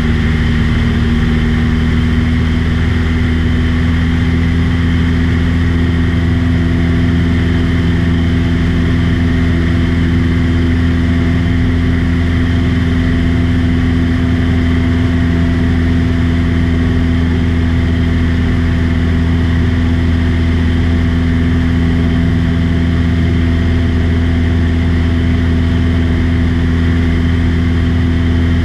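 Light aircraft's engine and propeller droning steadily in flight, one even low tone with no change in pitch.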